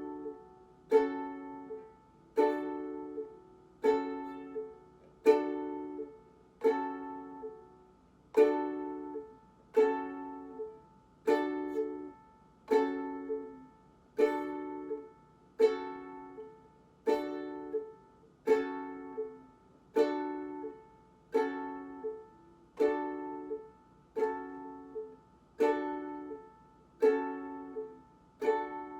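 Ukulele strummed once per chord, switching back and forth between D and G-flat minor (F-sharp minor), about one strum every second and a half, each left to ring out. This is slow chord-change practice.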